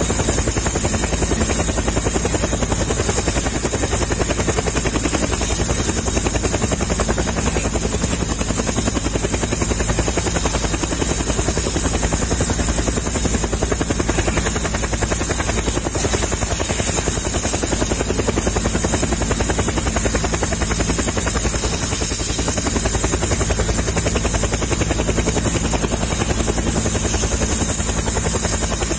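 Helicopter running, its rotor blades beating in a rapid, steady chop with a high steady whine over it.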